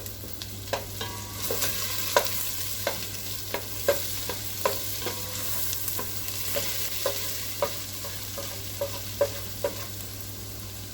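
Chopped vegetables frying in oil and butter in a pan: a steady sizzle, with a spoon clicking against the pan every half second or so as they are stirred.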